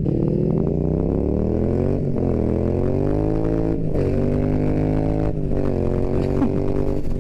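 Yamaha MT-07's parallel-twin engine with an Akrapovič Racing Line exhaust accelerating hard at wide-open throttle. The engine note climbs in each gear and drops at the upshifts: about two seconds in, just before four seconds and past five seconds, then it holds nearly steady.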